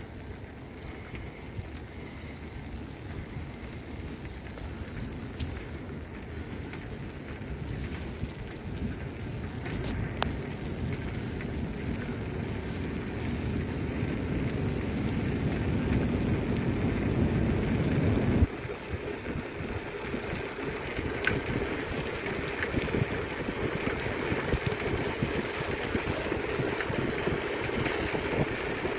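Noise of a bicycle ride: a steady low rush that grows louder over the first two-thirds, then drops suddenly and carries on at a lower level.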